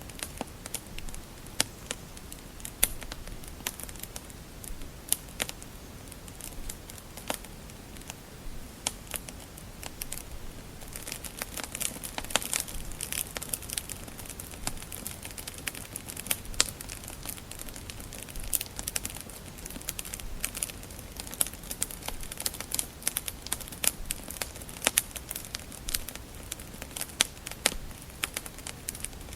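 Wood fire crackling, with scattered sharp pops and snaps. The crackling becomes denser from about eleven seconds in.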